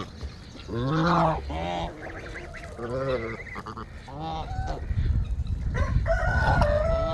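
Domestic geese honking: several short calls in the first half, then a longer, steadier call near the end, over a low rumble.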